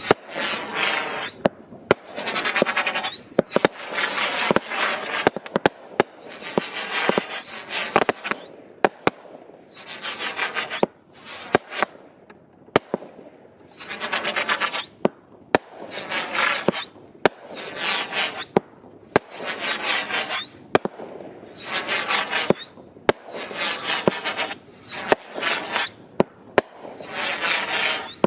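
A Brothers Cobalt Bomb consumer fireworks cake firing shot after shot, about one every two seconds. Each shot is a sharp crack followed by about a second of dense noisy bursting, with a few faint rising whistles among them.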